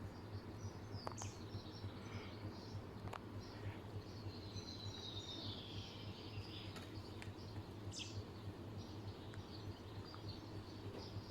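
Faint birdsong: scattered chirps and a longer whistled phrase that falls in pitch around the middle, over a steady low hum and a few light clicks.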